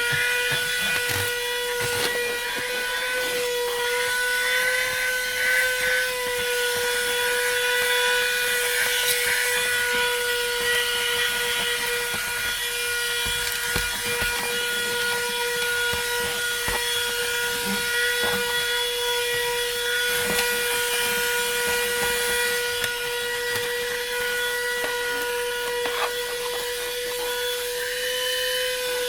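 Niecarva SV07 150 W 12-volt handheld car vacuum running at full suction: a steady high motor whine over rushing air. Scattered clicks and knocks come from the nozzle working over the car interior.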